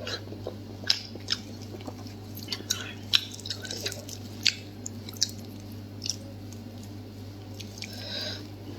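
Close-miked chewing of soft, collagen-rich food, with irregular wet smacking clicks of the mouth, busiest in the first half.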